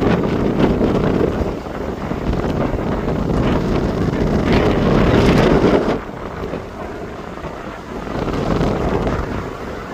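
Wind buffeting the microphone over the rumbling roar of a jet airliner's engines, loud for about six seconds and then dropping off.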